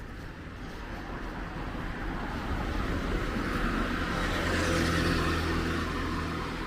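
A motor vehicle passes on a wet road. Tyre hiss and a low engine hum grow louder, peak about five seconds in, then begin to fade.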